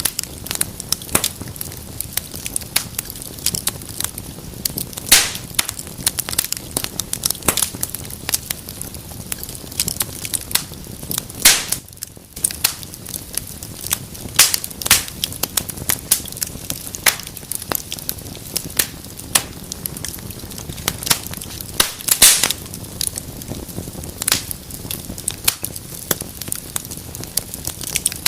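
Wood fire crackling in a fireplace: irregular sharp pops and snaps over a low steady rush, a few louder pops scattered through.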